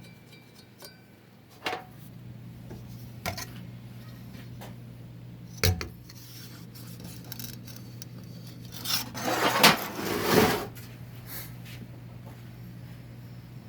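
Metal parts of a 4L60-E automatic transmission being handled during teardown: a few sharp clinks and knocks, then a couple of seconds of loud scraping and rubbing about two thirds of the way in.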